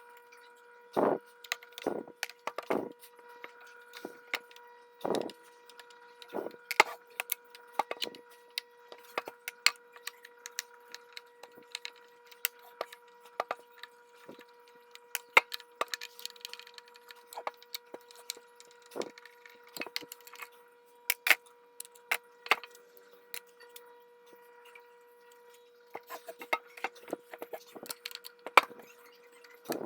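Irregular clicks and knocks of hand tools and small metal parts on a Singer sewing machine as it is worked on, with a few heavier knocks in the first few seconds, over a faint steady tone.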